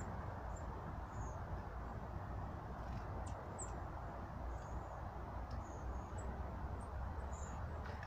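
Short, high, thin calls of small birds, about a dozen scattered through, with a few faint clicks, over a steady low background rumble.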